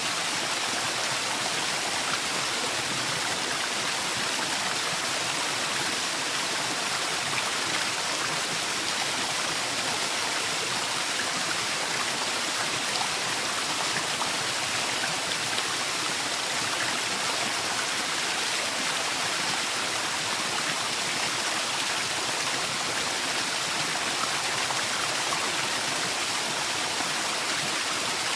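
Waterfall in a forest: a steady rush of falling water.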